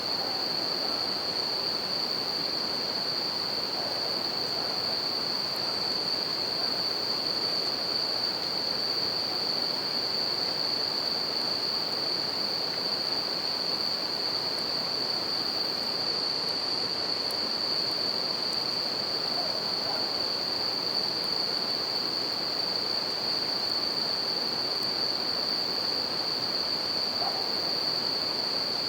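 River water flowing steadily, with Japanese bell crickets (suzumushi) singing a continuous high trill over it. A campfire adds a few faint crackles.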